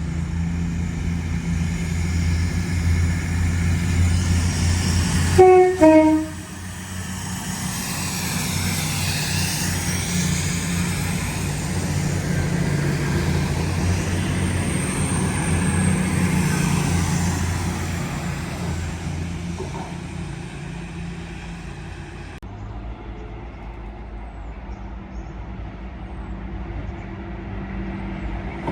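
A train running, with a steady low hum. About five and a half seconds in it gives a short two-tone horn blast, a higher note then a lower note, which is the loudest sound. The train's sound dies down over the last several seconds.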